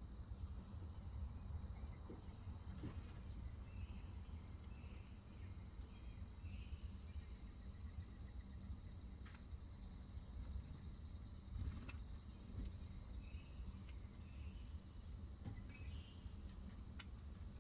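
Faint backyard ambience: a steady, high insect drone of crickets, with a few short bird chirps. A long, high trill runs for about seven seconds in the middle.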